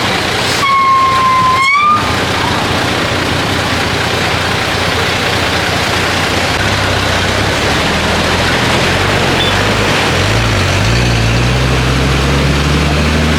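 A vehicle horn sounds once, for just over a second, over a loud steady rush of traffic driving through flood water. Near the end an engine's low drone grows louder and rises slightly in pitch as a vehicle pulls through.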